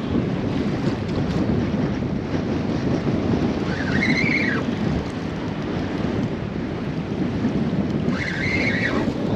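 Strong gusty wind buffeting the microphone over choppy water around a small boat. Twice, about four and eight and a half seconds in, a short high tone rises and falls.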